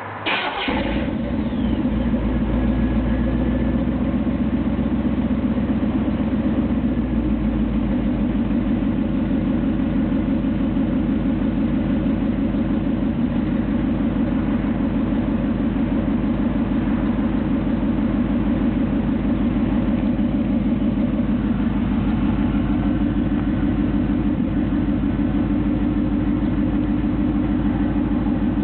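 Chevrolet Silverado's cammed 5.7-litre TBI V8 firing up with a sudden burst right at the start, then idling steadily with an even, rapid pulse through a Thrush 17660 3-inch single-in, single-out muffler fed by shorty headers, a Magnaflow Y-pipe and a high-flow cat.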